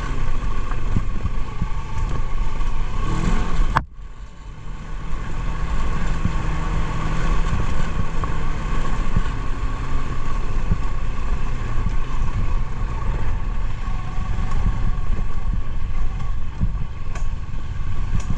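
Motorcycle engine running under way, with a steady drone and road rumble. About four seconds in the sound breaks off sharply, then the engine noise builds back up and runs on steadily.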